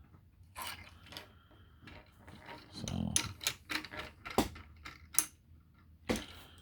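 Small 3D-printed plastic parts on a toy vehicle clicking and tapping as they are handled and fitted: a scattering of sharp, separate clicks, with a little rubbing between them.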